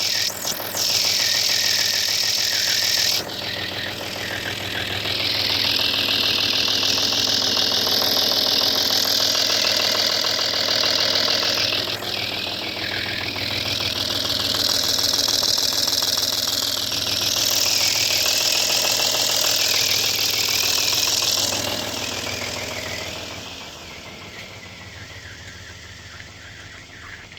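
Audi A4 B5's 2.5 V6 TDI diesel engine (AKN) running unevenly, its level rising and falling in long swells, then dropping away over the last few seconds. The engine is running wrong, a fault the owner says is not in the rocker arms or hydraulic lifters.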